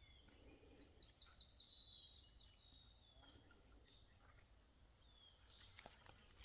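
Faint birdsong: a quick run of high chirps about a second in and another brief chirp near the end, over quiet outdoor ambience, with a few faint ticks.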